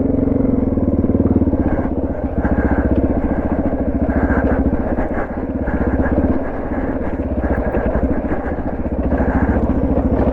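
Suzuki DR650's single-cylinder four-stroke engine running as the bike rides along a dirt trail, each firing pulse distinct. The engine note eases back for a couple of seconds just past the middle, then picks up again.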